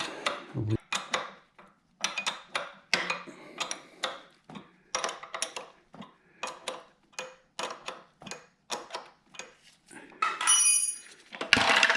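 Ratchet wrench clicking in short strokes as it turns the screw of a bearing puller drawing a part out, with a brief ringing metal clink near the end.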